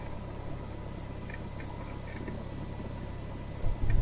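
Cessna 172R's four-cylinder Lycoming engine running at low taxi power, a steady low drone heard from inside the cabin. Just before the end a louder low rumble sets in.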